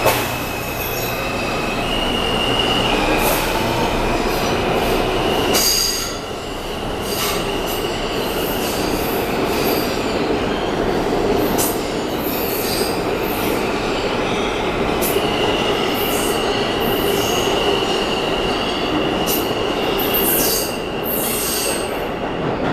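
New York City Subway R160 train pulling out of a station, with steady running noise, sharp clicks and clatter from the wheels, and a long high-pitched wheel squeal that holds for several seconds at a time.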